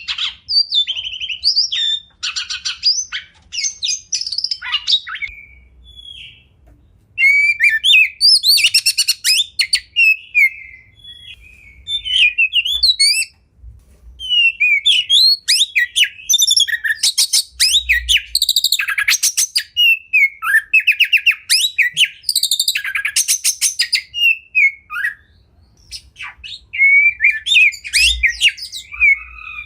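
Oriental magpie-robin (kacer) singing a loud, varied song of whistled notes, slurs and fast rattling trills, delivered in bursts with short pauses between phrases.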